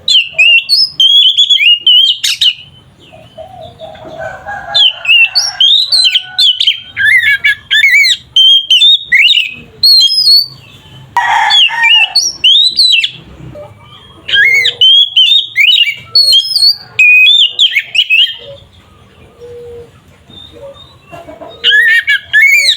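Oriental magpie-robin (kacer) singing loudly: rapid runs of sharp, sliding whistled notes and chatter, delivered in several bouts with short pauses between them.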